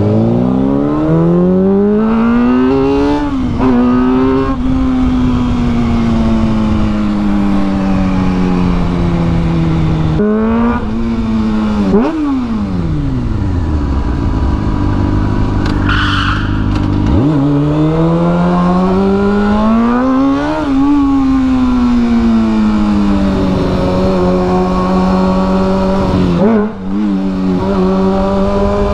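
Small single-cylinder Honda Grom engine under way: revs rise and fall through several gear changes, drop to a low idle around fifteen seconds in, then climb again and settle into steady running.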